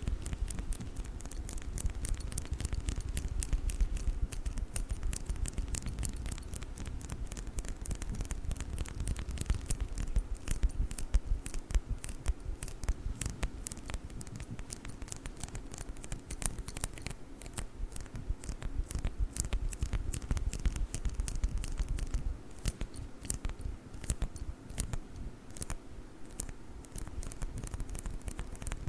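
Sticky lint roller worked close to the microphone, its adhesive sheet crackling in a continuous stream of fine, rapid clicks.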